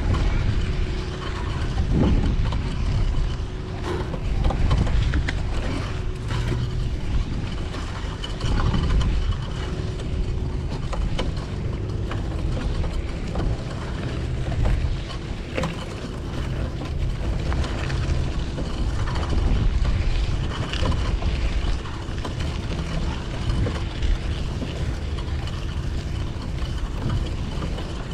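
City street traffic heard from a moving bicycle: a continuous low rumble of passing motor vehicles, with a steady faint hum through much of it.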